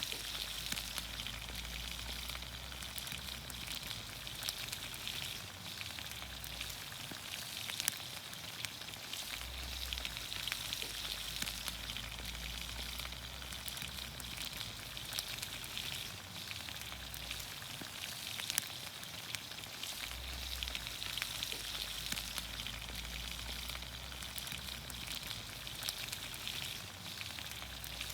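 Vegetables in olive oil sizzling in a pan over a campfire: a steady sizzle with many small pops and crackles.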